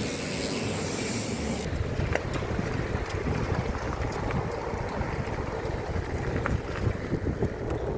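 Wind buffeting the microphone, an uneven low rumble with scattered clicks, with a high hiss that cuts off abruptly under two seconds in.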